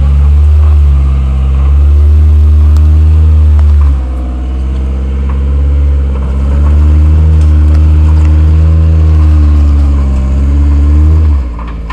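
Lifted Suzuki Samurai's engine revving hard under load as the 4x4 crawls over rocks, in two long pushes with a short easing of the throttle about four seconds in. The revs drop away suddenly near the end.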